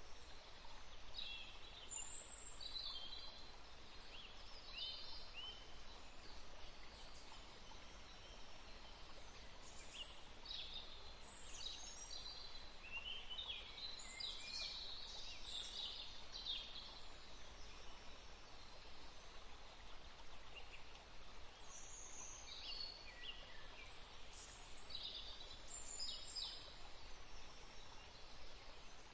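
Songbirds chirping: many short, high calls and trills, some sliding in pitch, over a faint steady background hiss. They thin out for a few seconds past the middle, then pick up again toward the end.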